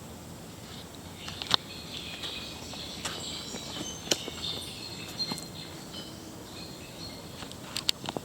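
Outdoor ambience with small birds chirping and twittering over a steady background hiss, broken by several sharp clicks.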